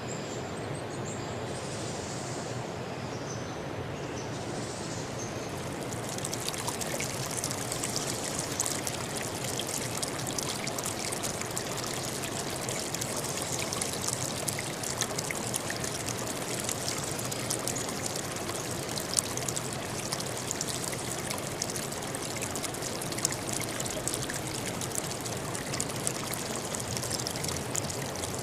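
River or stream water running and splashing in a steady rush. About six seconds in, the sound turns brighter, louder and splashier.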